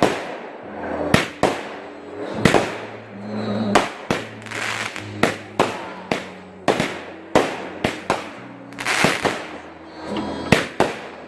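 A 16-shot 200-gram consumer firework cake firing, with a sharp shot about once or twice a second. Between the shots come swelling hisses and crackle as the effects burst.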